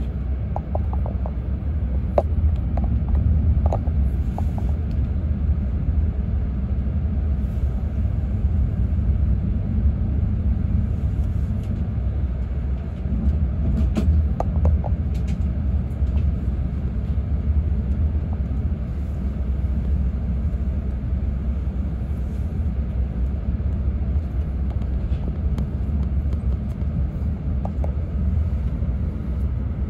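E6-series Komachi shinkansen train heard from inside the passenger cabin: a steady low rumble of the train running on the track, with a few faint ticks.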